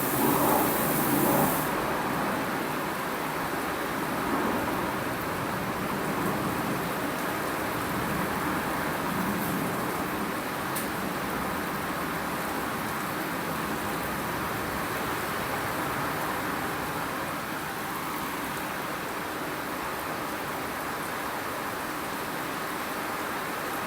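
Steady rain falling, an even rushing patter, a little louder in the first second and a half.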